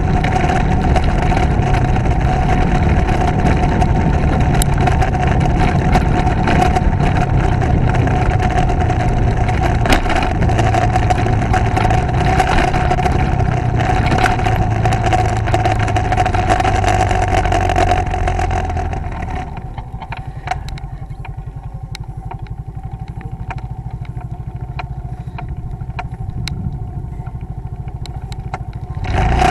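Motorcycle engine running steadily while riding, with road noise. About two-thirds of the way through it drops to a quieter, low, even putter like an idle, and it picks up again at the very end.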